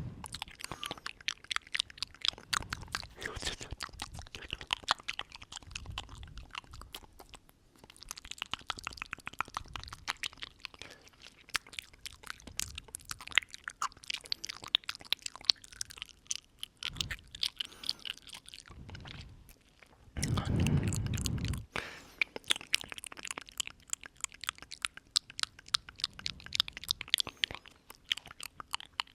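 Close-miked ASMR mouth sounds: a steady stream of wet clicks and smacks from lips and tongue. About two-thirds of the way through comes a louder, breathy rush into the microphone lasting a second or two.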